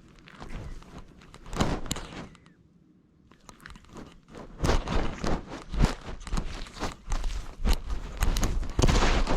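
Irregular crunching, scratching and rustling of a cat moving over the ground, picked up close by a camera strapped to the cat. It pauses briefly a few seconds in, then becomes busier and louder for the rest of the time.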